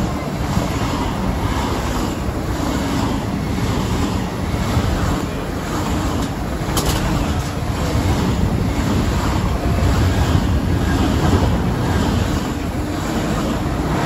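Deutsche Bahn ICE train running close past the platform: a loud, steady rush of air and wheels on rail with a faint regular pulse as the cars go by, and one sharp click about seven seconds in.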